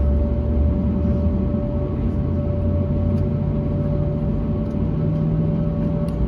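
Steady cabin noise of an Airbus A321neo with Pratt & Whitney PW1100G geared turbofans: a continuous engine and airflow rumble with a clear steady tone over it. A lower hum rises slightly in pitch about halfway through.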